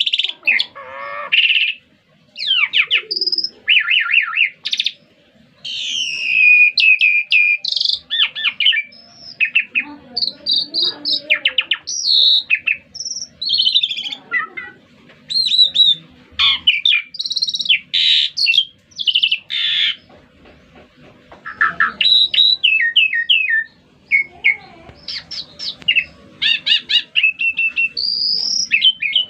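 Songbird in full, energetic 'gacor' song: a fast, varied run of chirps, trills and whistles, broken by a few short pauses.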